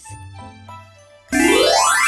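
Soft children's background music, then a little over a second in, a loud rising swoop sound effect, a cartoon-style whistle glide climbing steeply in pitch.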